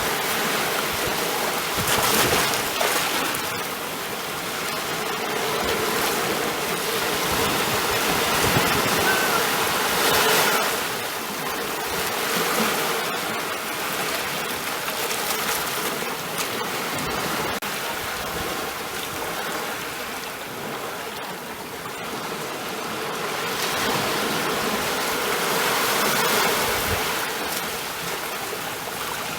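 Ocean waves washing on a shore, a steady rush of surf that swells and eases every few seconds.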